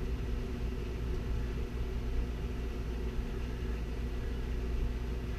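Steady low hum and hiss of workshop background noise, with no distinct clicks or knocks.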